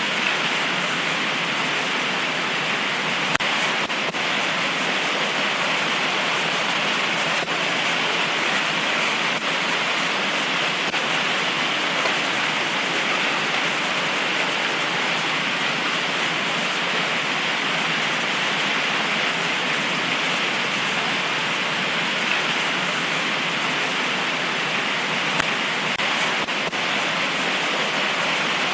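Heavy tropical rain pouring steadily, an even hiss with a few single drops ticking out louder now and then.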